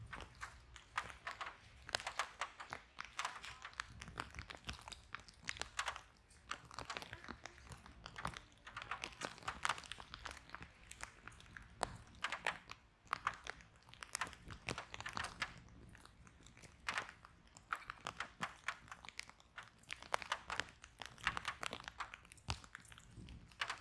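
Wood fire burning in a fireplace: irregular crackles and sharp pops over a low rumble of flame.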